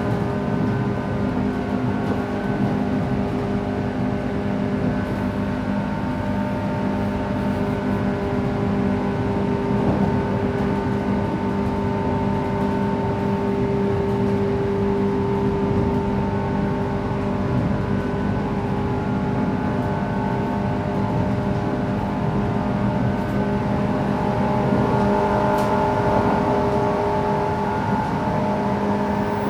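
Interior running sound of a JR West 117-series electric train under way: a steady rumble of wheels on rail with the whine of the traction motors and gears held at a nearly constant pitch, the train cruising at a steady speed.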